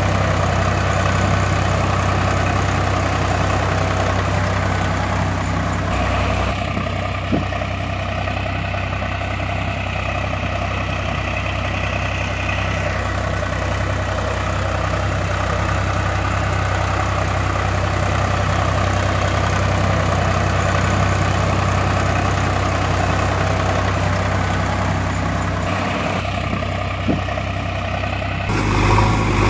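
Heavy machinery diesel engine idling steadily, a low, even drone.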